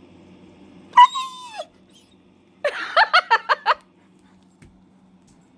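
German shepherd puppy vocalizing: one high whine about a second in that drops in pitch, then a quick run of about seven short whining yips near the three-second mark.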